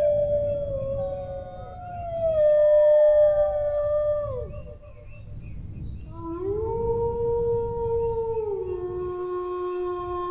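Dogs howling in long drawn-out howls. At least two overlap in the first half, each sliding slowly down in pitch and fading out. After a short lull a new howl rises, holds, drops a step lower and holds on, over a low rumble.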